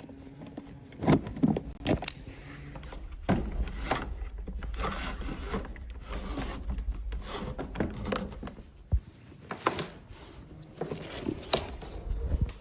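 Irregular scraping and rubbing with scattered sharp knocks and clicks, over a low rumble, typical of hands-on handling and scrubbing noise.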